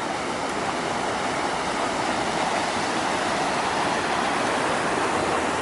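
Steady rush of flowing water, a stream or cascade running through a tunnel.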